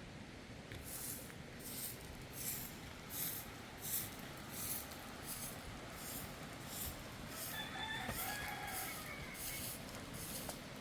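A rooster crowing once, about a second and a half long, near the end. Behind it, a steady rhythm of short rasping strokes, about one every 0.7 seconds.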